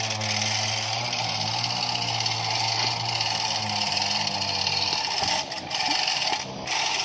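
A vehicle engine running steadily with an even low hum that fades out about five seconds in, over a constant hiss.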